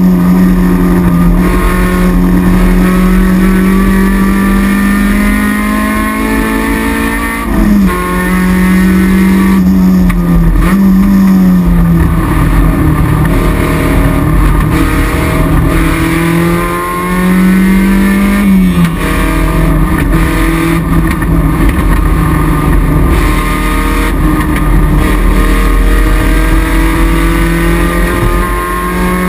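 Toyota MR2's mid-mounted 4A-GE 1.6-litre twin-cam four-cylinder engine running hard at high revs, heard from inside the stripped cabin. Its pitch climbs steadily and jumps or drops a few times as the throttle is lifted and the revs change.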